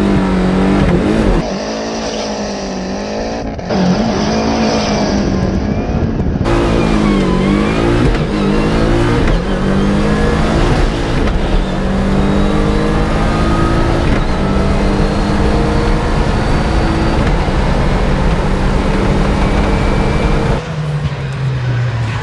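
Lancia Delta Integrale Evo rally car's turbocharged four-cylinder engine at full effort on a stage, the revs repeatedly climbing and dropping through gear changes and corners. The sound changes abruptly a few times as the view cuts between onboard cameras.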